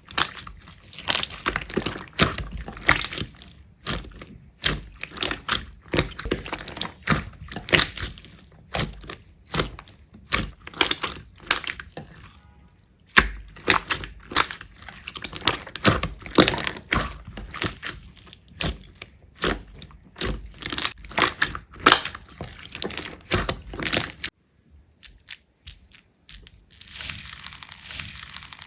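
Slime being squeezed, pressed and poked, making dense runs of sharp crackling and popping clicks. They pause briefly about halfway, stop abruptly near the end, and come back as a softer crackle.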